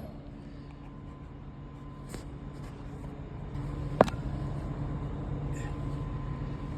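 VEVOR 2000-watt core drill running steadily while cutting through hollow-core concrete, getting louder about three and a half seconds in. A single sharp click sounds about four seconds in.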